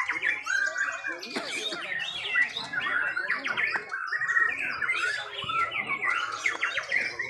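Several white-rumped shamas (murai batu) singing at once: a dense, unbroken stream of rapid whistles, trills and chirps.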